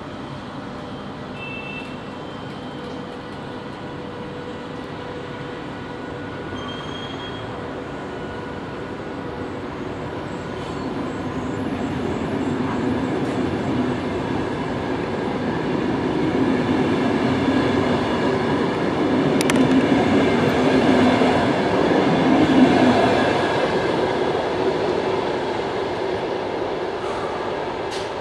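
VR Sr2 electric locomotive pulling a passenger train out of the station, the coaches rumbling past on the rails. The sound grows louder for most of the time, is loudest about three quarters of the way through, then eases off.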